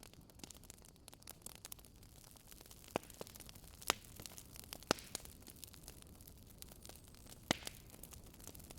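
Wood fire crackling in a fireplace: a steady low hiss and rumble with frequent small crackles, and four sharper, louder pops spread through the middle.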